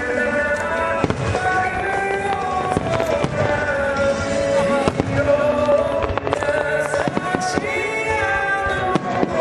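Fireworks bursting over music played for the show: held, sustained melodic notes run throughout, with several sharp bangs of fireworks going off through it.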